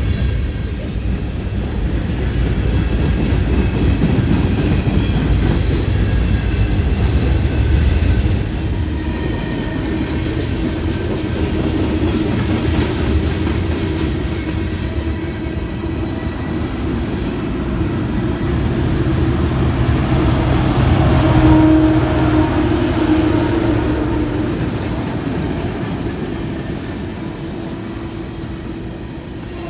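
Train rolling past: a continuous rumble of railcars on the rails with wheel clatter, swelling and easing as it goes by.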